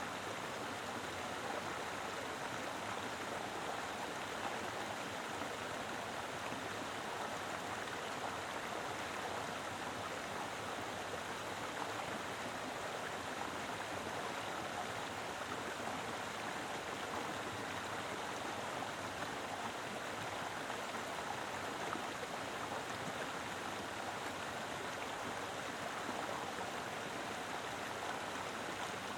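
Mountain river flowing with plenty of water: a steady, even rush of water with no breaks.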